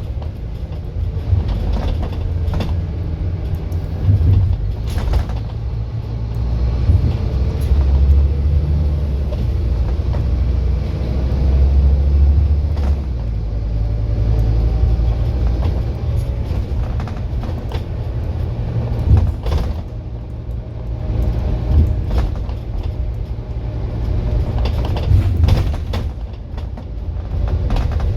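Scania N230UD Enviro400 double-decker bus running: a steady low diesel rumble that grows louder for a few seconds around the middle, with scattered knocks and rattles.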